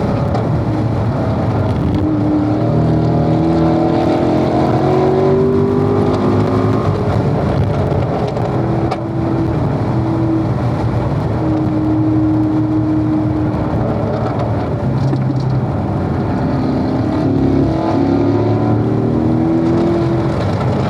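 Corvette engine running hard on a racetrack, heard from on board. Its pitch climbs and breaks off several times as it revs through the gears, holds steady for a few seconds mid-way, then climbs again near the end, over a steady rush of road and wind noise.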